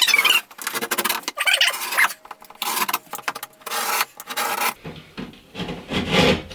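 Utility knife scoring drywall along a traced cut line: repeated scraping strokes of the blade through the paper face.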